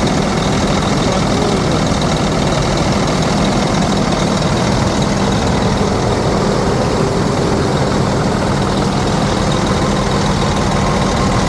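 Cummins ISX inline-six diesel truck engine idling steadily, an even low rumble with no change in speed.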